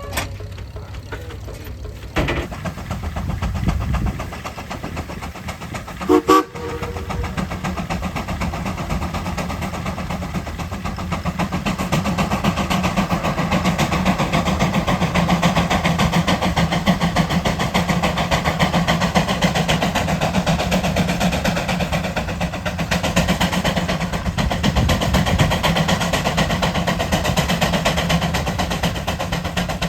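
Sawyer-Massey steam traction engine's steam whistle: a short toot about six seconds in, then a long continuous blast mixed with the hiss of escaping steam.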